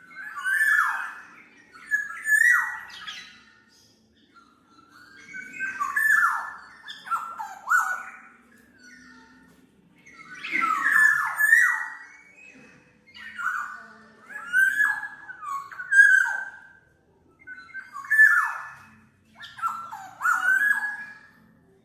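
Black-naped oriole (kepodang mas) singing: bouts of loud, fluid whistled notes, many sweeping down in pitch, repeated every couple of seconds with short pauses between bouts.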